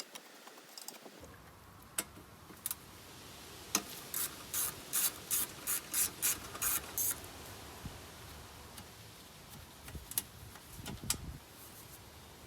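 Hand-tool work on a lawn mower: a few sharp clicks, then a run of about nine short rasping strokes, a little over two a second, and a couple more clicks near the end.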